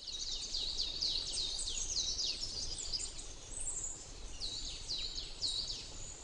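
Birds chirping, many quick high calls a few per second and overlapping, over a faint low background rumble.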